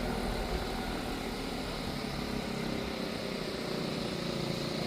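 A vehicle travelling on a rough road: steady engine and road noise heard from on board.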